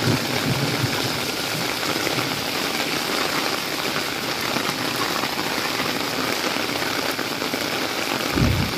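Heavy rain pouring steadily onto a tarmac street, an even, dense hiss of falling water. A low rumble comes in near the end.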